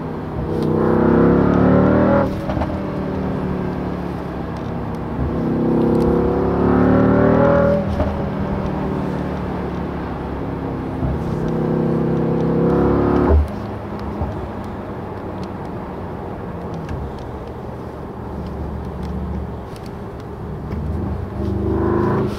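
Mercedes-AMG E63 S's twin-turbo V8 accelerating hard in three pulls, each rising in pitch and cutting off sharply, with a sharp crack as the third pull ends. After that it runs more steadily, and it starts to rise again near the end.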